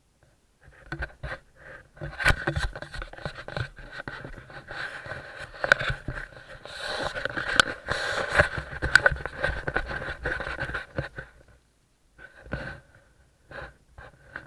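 Irregular scraping and rustling with many sharp clicks and knocks, from about a second in until it stops about eleven and a half seconds in, followed by a couple of short scrapes near the end.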